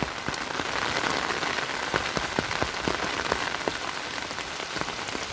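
Steady rain falling, with many separate heavy drops hitting close by.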